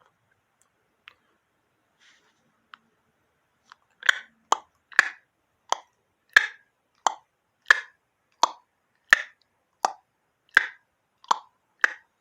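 A pilot igniter clicking over and over as someone tries to light a gas furnace's pilot: a few faint clicks, then from about four seconds in a steady train of sharp clicks, roughly one every 0.7 seconds.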